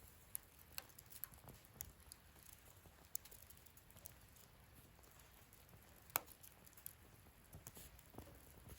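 Wood fire burning in a fire-pit stand, crackling faintly with scattered, irregular pops; one sharper pop comes about six seconds in.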